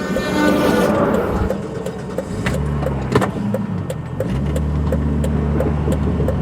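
1999 Volvo S80 T6 twin-turbo straight-six running steadily at a low, even hum, with a regular ticking throughout.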